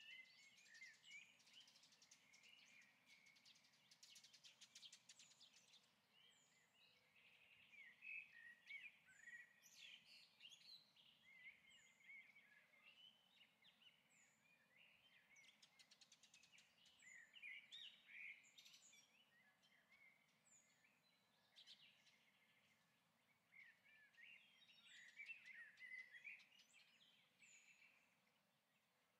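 Faint birdsong: scattered chirps, short trills and little rising and falling whistles, coming in clusters every few seconds.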